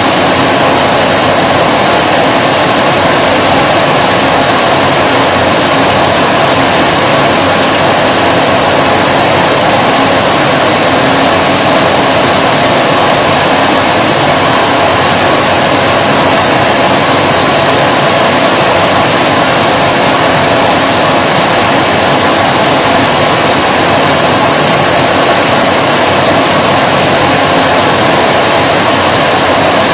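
Vacuum cleaner running continuously: a loud, steady whir and rush of air that does not change. The very top of the hiss briefly thins about every eight seconds.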